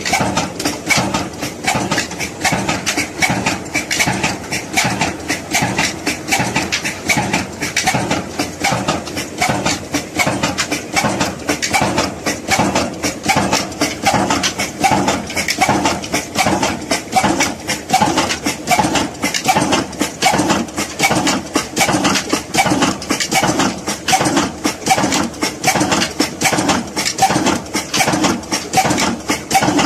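Old Ruston Hornsby diesel engine running at a slow, steady speed, its firing beat knocking about three to four times a second.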